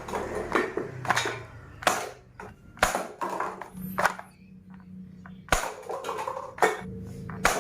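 An irregular series of about ten sharp clicks and knocks, a few of them louder than the rest.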